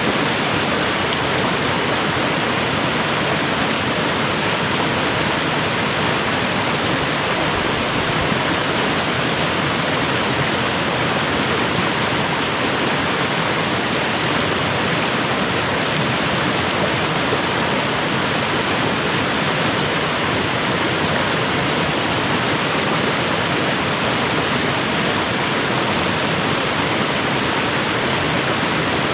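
Steady rush of flowing creek water, unchanging throughout.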